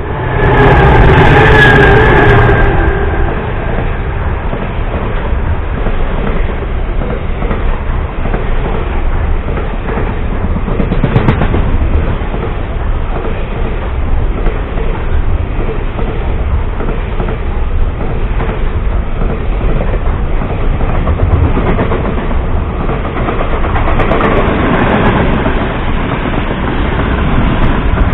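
Freight train hauled by diesel locomotives passing close by. A horn sounds for about two seconds at the start, then the wagons rumble and clatter steadily over the rail joints.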